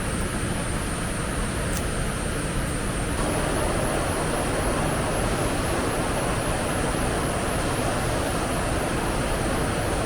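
Strong wind blowing and rumbling on the microphone, swelling a little after a few seconds, with a steady high-pitched pulsing trill underneath.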